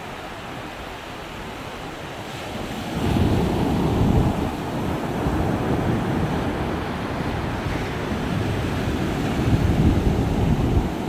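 Ocean surf washing in as a steady rushing noise. About three seconds in, a deep rumbling swell rises sharply and stays loud, swelling again near the end.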